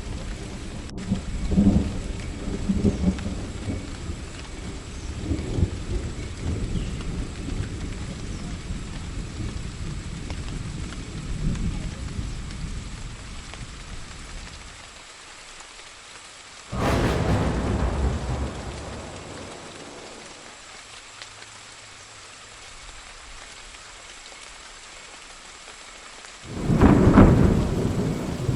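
Thunderstorm: steady rain with thunder. A long low rumble fades away over the first fifteen seconds or so, then two sudden thunderclaps break in, about 17 seconds in and again near the end.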